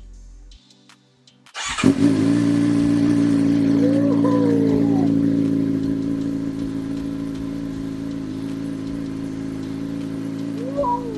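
Motorcycle engine starting abruptly about two seconds in, then idling steadily and loudly through a home-made shorty exhaust cut down from the stock muffler and baffled with perforated aluminum: its first sound test.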